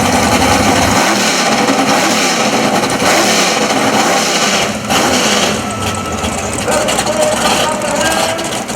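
Car engines running loud, their pitch rising and falling, with people's voices mixed in.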